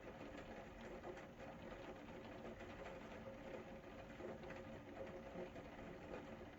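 Faint, steady rain falling, a dense patter of many small drop ticks. A faint steady hum runs underneath.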